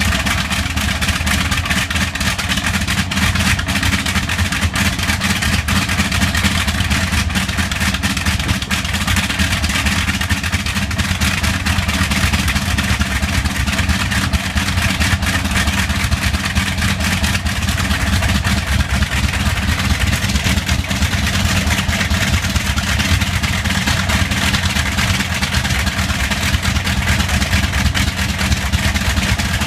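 Bristol Hercules 14-cylinder sleeve-valve radial aircraft engine running steadily with a slight misfire.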